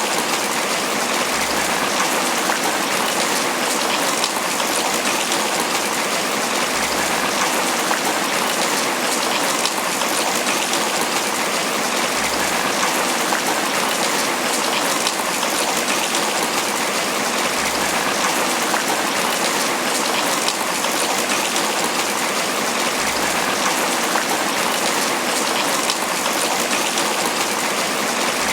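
Tropical rain falling steadily on banana leaves, a dense, even patter.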